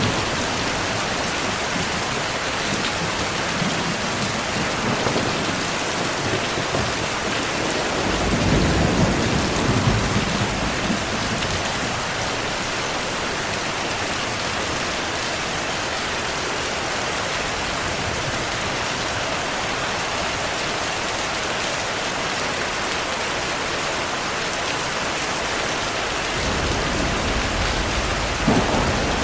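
Steady heavy rain with rolls of thunder. A low rumble swells about eight to eleven seconds in, and another builds near the end with a sharper clap just before it ends.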